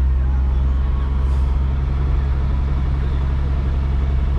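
Tow truck engine running with a steady low drone while the truck is under way.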